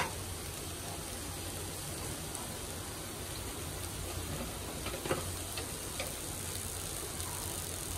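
Green masala paste sizzling gently in a steel pan over the flame, a steady soft hiss with a few faint pops a little past halfway.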